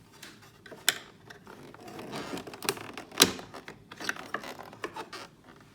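Hard plastic parts of a vacuum cleaner being handled and worked apart: a run of sharp clicks and knocks with scraping and rubbing between them. The loudest click comes about three seconds in.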